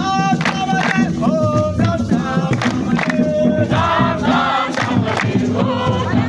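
A group of voices singing together over music, with held, sliding notes and a steady low accompaniment.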